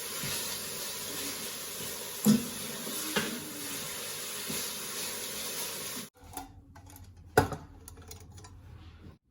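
A steady hissing noise with a few clinks or knocks in it that cuts off suddenly about six seconds in. Then come quieter scattered clicks and one sharp knock.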